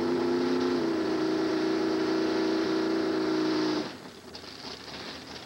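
Drag car's engine at full throttle as it runs down the strip, a loud steady engine note that shifts slightly in pitch about a second in. Near four seconds in the engine sound drops off sharply, leaving faint background noise.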